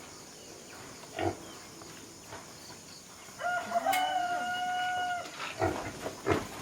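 A rooster crowing once, a single drawn-out call lasting nearly two seconds, a little past the middle, with a few short low thuds around it.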